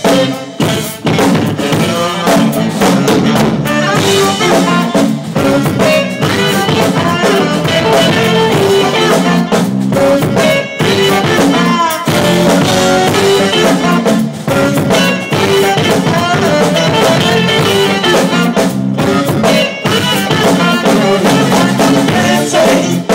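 Live jam band playing an instrumental passage: drum kit with rimshots and bass drum driving a steady beat under the other instruments, with no vocals.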